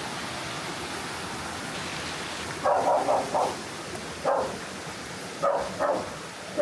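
A dog barking: a quick run of about four barks a little under halfway in, then a single bark, a pair, and one more near the end, over the steady rush of stream water and rain.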